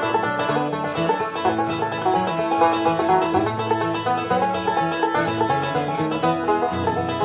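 Five-string banjo picking fast rolls for the instrumental kickoff of a bluegrass song, over a guitar's bass-note backing.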